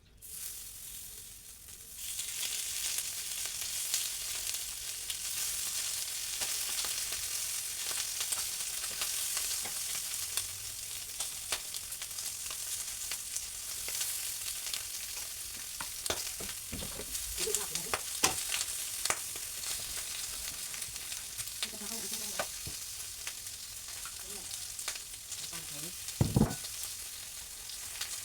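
Food frying in hot oil in a pan: a dense sizzle that jumps up about two seconds in, with scattered clinks of a utensil stirring and one louder knock near the end.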